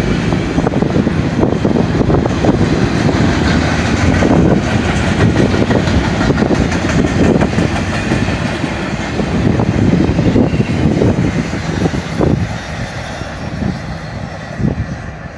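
Double-stack container train cars rolling past with a steady rumble and clatter of steel wheels on the rails, easing off somewhat in the last few seconds.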